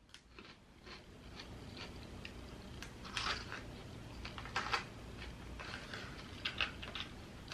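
Faint eating sounds close to the microphone: chewing, with scattered small clicks and wet smacks in a few short clusters.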